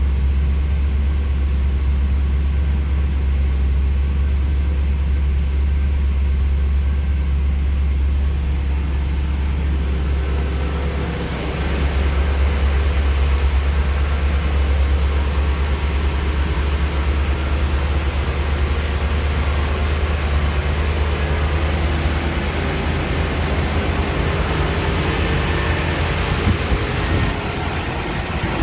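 A 1979 Hurst/Olds V8 idling steadily on a cold-start warm-up. About eleven seconds in the sound dips briefly and then comes back louder and brighter.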